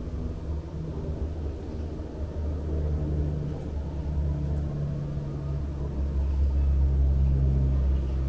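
Low rumble of a motor vehicle's engine running nearby, with a hum that shifts in pitch and grows louder about six seconds in.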